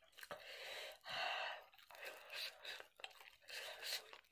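Close-miked eating sounds: chewing a mouthful of curried potato, with several short, sharp breaths drawn between chews.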